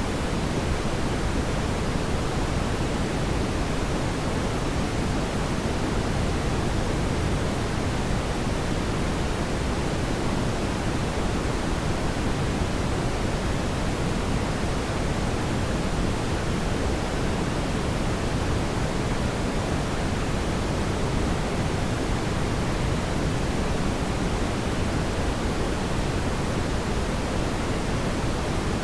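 Fireplace fire burning with a steady, even hiss and rumble and no distinct pops or crackles.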